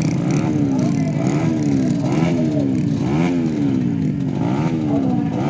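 Dirt bike engine revving up and down over and over, about once a second, its pitch climbing and dropping with each twist of the throttle.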